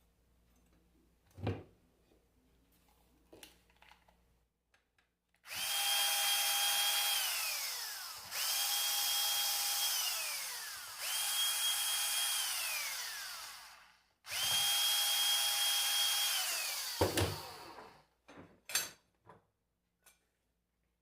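A small handheld electric power tool run in four bursts of about two to three seconds each: its motor whines at a steady pitch, then winds down in pitch each time the trigger is released. A few light knocks of handling come before and after.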